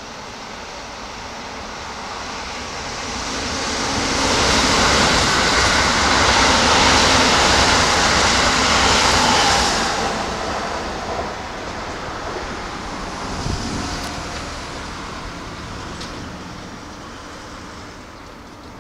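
Keikyu electric trains, a 1000-series and a 2100-series, passing close by on the main line. The rumble and hiss of wheels on rails builds, is loudest for several seconds, then slowly fades. A single knock comes about two thirds of the way through.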